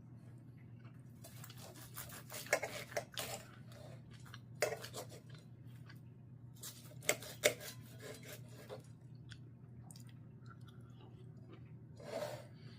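Knife and fork scraping and clinking on a plate while cutting into a ribeye steak, in scattered short clusters over a low steady hum.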